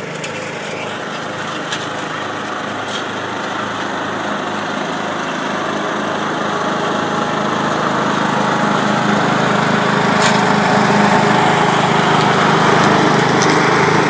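Small lawn mower engine running steadily, growing gradually louder as it comes closer.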